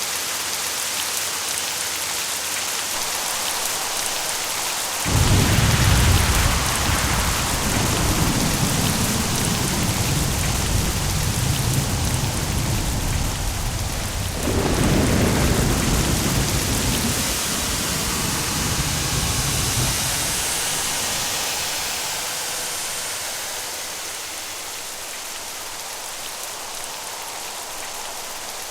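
Steady rain with a thunderclap that breaks suddenly about five seconds in, rumbles, swells again about halfway through, then rolls away, leaving the rain alone for the last several seconds.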